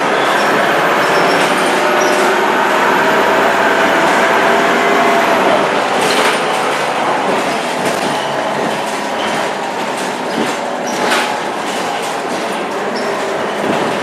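Scania K230UB bus under way, heard from on board: the engine and turbo run with a pitch that climbs for about five seconds and then falls away, and rattles and knocks come through in the second half.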